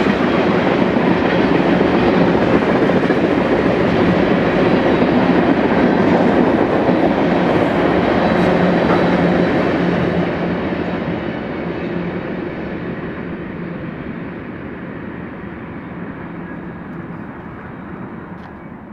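Freight cars of a mixed manifest train rolling past: tank cars, boxcars and hoppers, a steady rolling noise of wheels on rail. About halfway through it begins to fade steadily as the end of the train moves away.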